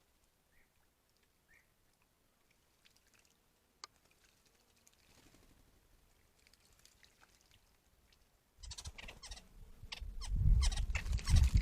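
Mostly quiet with a few faint bird chirps, then, from about nine seconds in, loud splashing and wing-fluttering of a bird bathing in a shallow pond, growing louder toward the end.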